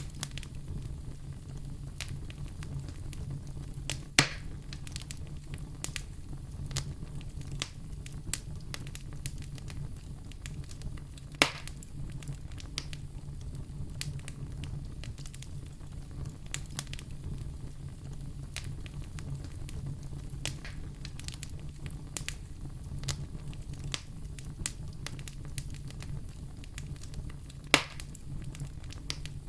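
Wood fire crackling in a fireplace: a steady patter of small snaps and pops, with three louder sharp pops, about 4, 11 and 28 seconds in, over a steady low rumble.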